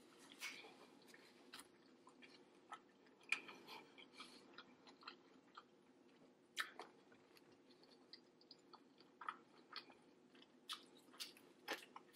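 Person chewing food close to the microphone, faint, with irregular short soft clicks of the mouth.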